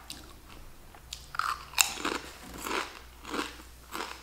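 Potato chips being bitten and chewed, with about six crisp crunches spread over a few seconds, beginning about a second in.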